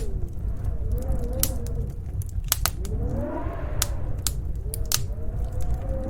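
Wood fire crackling with frequent sharp pops, over a steady low snowstorm wind that howls in slowly rising and falling tones.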